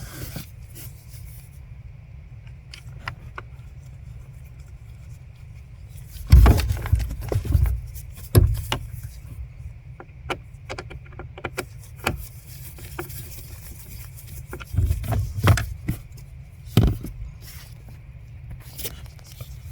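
Small metal clicks and knocks of screws and a hand tool as a replacement A/C servo actuator is screwed back into place, coming in scattered clusters over a steady low hum.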